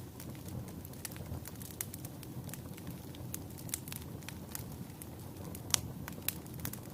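Wood fire crackling in a fireplace: frequent sharp pops and snaps over a low, steady rush of the flames, with one louder pop near the end.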